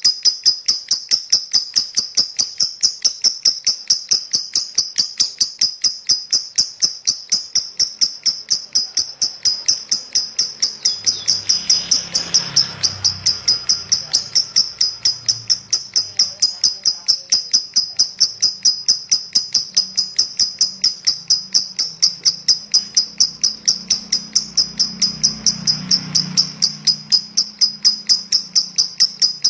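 Lovebird singing a long, unbroken ngekek: a high-pitched, rapid chattering trill of about four notes a second that runs on without a pause. A faint low rumble comes in about twelve seconds in and again near twenty-five seconds.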